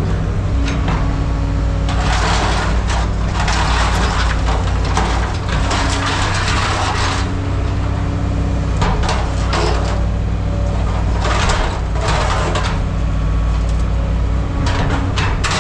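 A machine's engine running steadily, with several bursts of rattling and crashing as scrap metal is moved or dumped, and scattered sharp knocks.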